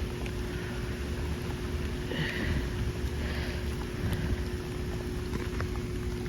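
Steady rain falling, with scattered drops ticking close by and a low rumble of wind on the microphone. A faint steady hum runs underneath.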